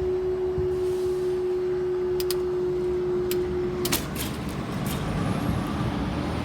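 Level crossing barrier machinery raising the arms after a train: a steady hum that stops suddenly about four seconds in with a few sharp clicks, followed by road vehicles starting across.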